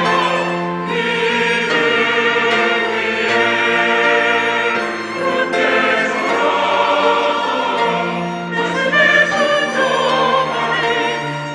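Church choir singing in harmony, holding long notes with vibrato.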